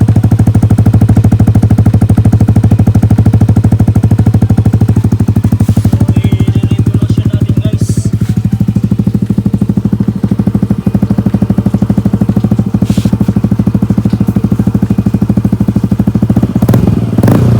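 Yamaha NMAX 155 scooter's single-cylinder four-stroke engine idling steadily through an Akrapovic muffler with its silencer insert removed, giving a loud, open exhaust note.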